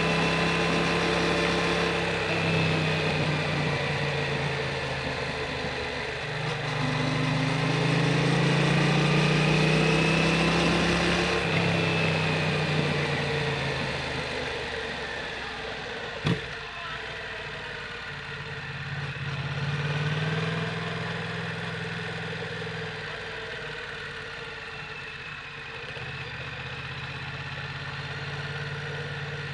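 Yamaha MT-07 parallel-twin engine through an Akrapovic full titanium exhaust, running at low revs, swelling and easing off with slow changes in pitch. There is one sharp click about sixteen seconds in.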